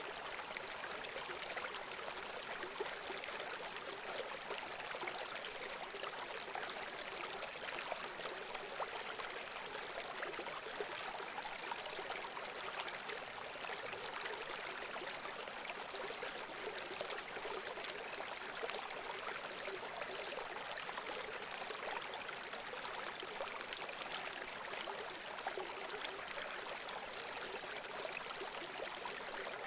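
Running water flowing steadily, the continuous splashing of a small stream.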